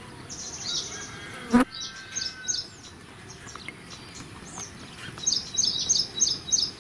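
Small birds chirping high and quick, ending in a run of sharp, evenly repeated chirps at about three a second. A single sharp click about a second and a half in is the loudest sound.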